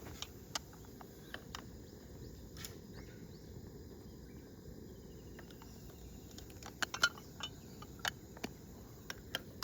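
Wood campfire crackling: sparse, irregular sharp pops and clicks over a faint steady background, a few bunched together about seven seconds in.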